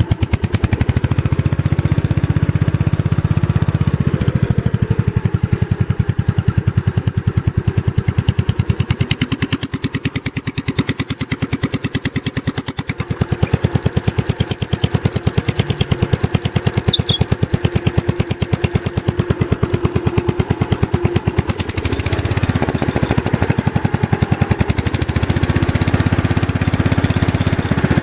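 Gravely tractor engine running with a rapid, even exhaust beat while its mufflers are swapped with the engine still running; the exhaust note changes several times along the way.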